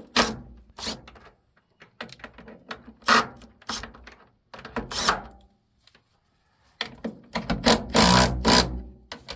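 Sharp clicks and knocks of a bolt being tightened against a split lock washer on the roof joists, a few at a time at first, then a denser two-second run of them near the end.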